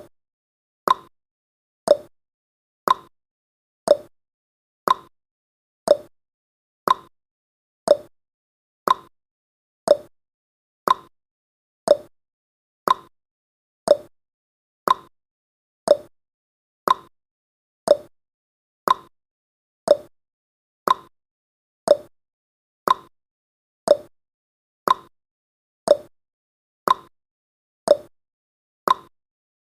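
Countdown timer's sound effect, a short sharp click once every second in an even beat, with silence between clicks.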